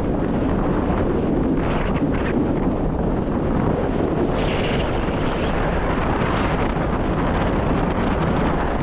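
Strong wind buffeting the microphone: a steady, loud low rumble and hiss.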